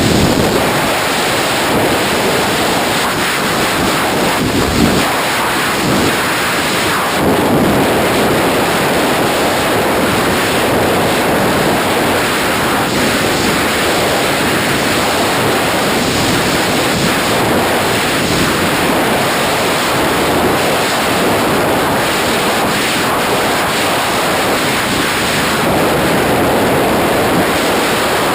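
Loud, steady rush of freefall wind buffeting the camera microphone, an even roar with no let-up.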